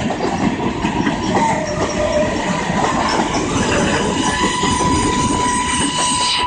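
Train rolling past, a heavy uneven rumble of wheels on rail with a steady high-pitched wheel squeal that grows stronger in the second half.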